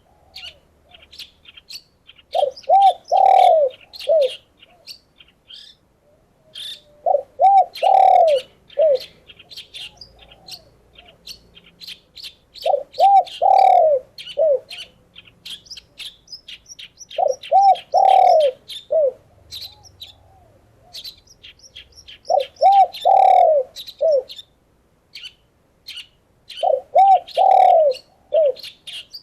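A dove cooing a short phrase of three or four low notes, repeated about every five seconds, over rapid high chirping and twittering from small songbirds throughout.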